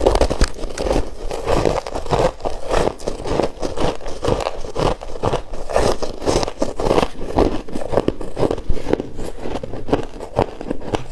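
A person chewing mouthfuls of freezer frost close to the microphone: a steady, dense run of soft crackling crunches.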